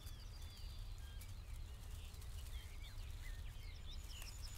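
Faint outdoor birdsong: scattered short whistled chirps, with a quick run of high, evenly spaced notes near the end, over a low wind rumble.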